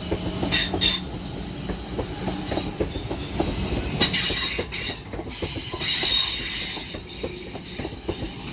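A pair of Class 323 electric multiple units pulling out slowly, wheels clicking over rail joints and points. The wheel flanges squeal briefly three times: a little after the start, around four seconds in and around six seconds in.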